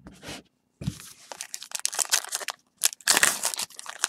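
Trading card pack wrapper being torn open and crinkled in the hands: irregular crackling and rustling that builds about a second in and runs on.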